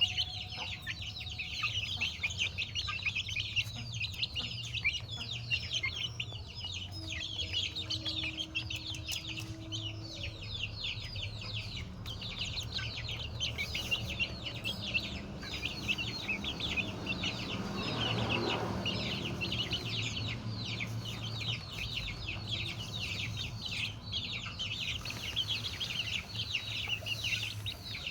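A flock of chickens calling: a dense, continuous chorus of many quick, high, falling calls, with a low steady rumble underneath.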